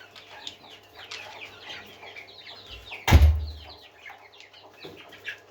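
Many parrots chirping and chattering in quick, overlapping short calls, with one loud thump about three seconds in.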